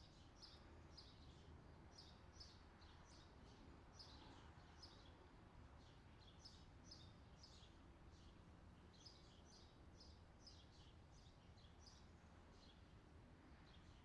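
Faint outdoor summer ambience: birds chirping in quick repeated short calls over a low steady background hum, the chirps thinning out near the end.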